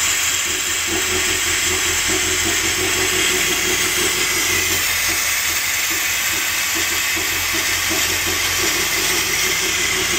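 1970 Chrysler 300's 440 TNT big-block V8 running steadily, a loud even rush of noise over a quick, uneven low pulsing.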